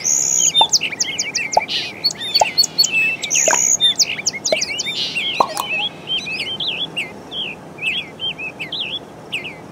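Several birds chirping and singing, many quick rising and falling calls overlapping without a break, with a few short lower notes among them.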